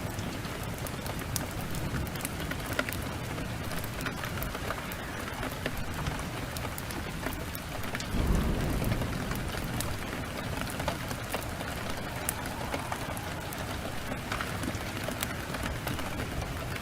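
Heavy rain pouring steadily, with a short low rumble of thunder about eight seconds in. Fine crackling clicks from a wood fire run through it.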